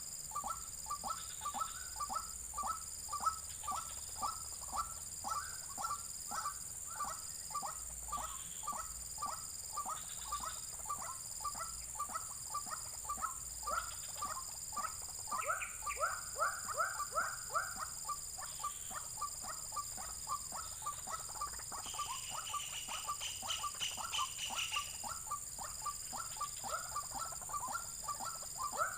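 White-breasted waterhen calling: a long, monotonous run of short falling notes, about two or three a second, growing louder for a few seconds in the middle.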